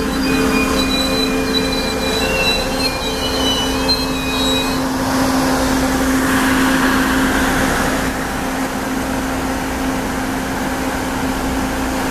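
Amtrak passenger train rolling slowly while braking, its wheels squealing in several high tones that stop about five seconds in. A rush of noise follows, then a steady low hum as the train slows to a stand.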